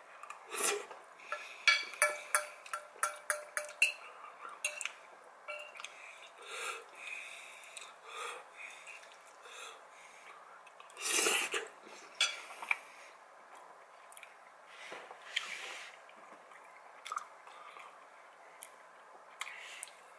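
Close-miked chewing and wet mouth sounds of a person eating soft, cheesy pasta, with a run of sharp clicks in the first few seconds and one louder wet mouth noise about eleven seconds in.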